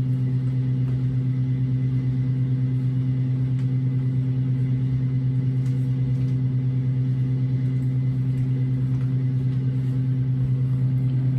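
A steady, loud electric motor hum with a fast, slight pulsing, unchanging throughout.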